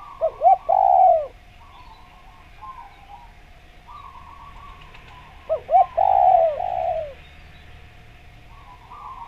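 Spotted dove cooing in two phrases, one at the start and one about five and a half seconds in. Each phrase is a couple of short notes and then a longer falling coo. Fainter chirping from other birds fills the gaps, over a steady thin hum.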